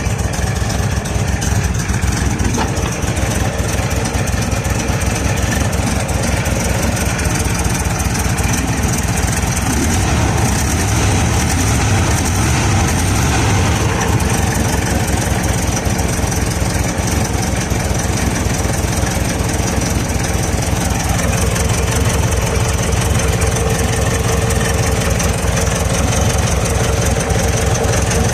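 1976 Volkswagen Beetle's air-cooled flat-four engine running steadily at idle, an even rapid pulsing exhaust beat.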